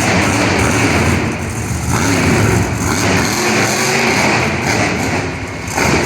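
Monster truck engine revving loudly, easing off briefly about two seconds in and again near the end.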